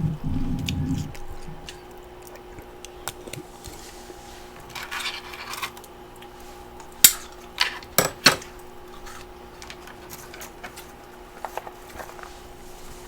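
Freezer frost and ice chunks being handled: a low thump at the start, a short crunch about five seconds in, then four sharp clinks of ice against a container around seven to eight seconds, and a few faint clicks later.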